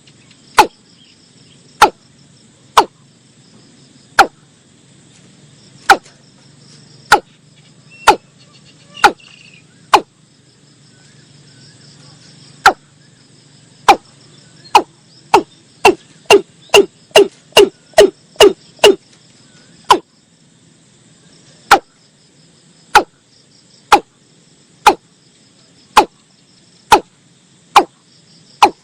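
Watercock calling: a long series of short, hollow notes, each dropping in pitch, about one a second, speeding up to two or three a second in the middle of the run and then slowing again. Faint insect trilling runs underneath.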